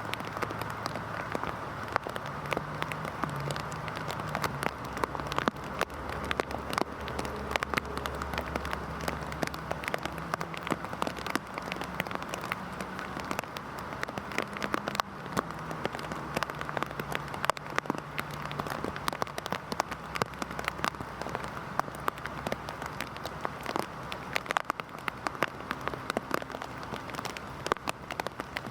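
Heavy rain falling steadily, with many sharp individual drops striking a hard surface close by.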